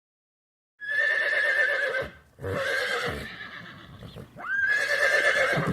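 Horse neighing three times in a row, each whinny over a second long with a quavering pitch. It starts after a short silence.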